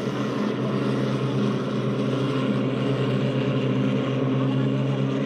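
Race boats powered by Mitsubishi L300 van engines running hard, a steady engine drone.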